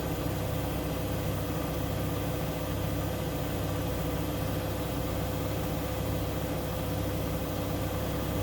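Siemens Siwamat iQ 716 washing machine running steadily: a continuous machine hum with a steady mid-pitched tone over a low rumble and an even hiss, unchanging throughout.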